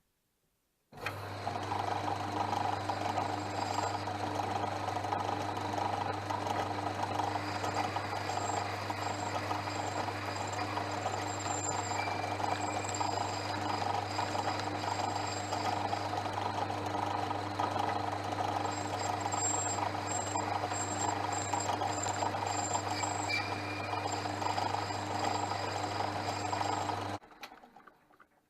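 Portass Model S mk2 lathe switched on about a second in and running steadily with a constant motor hum, then switched off near the end and quickly running down.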